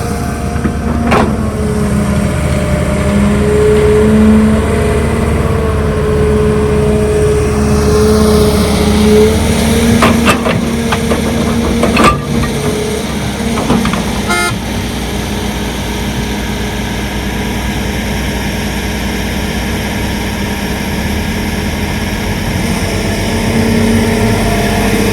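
Heavy diesel construction machinery running steadily, with a few sharp knocks about a second in and again around ten to twelve seconds in.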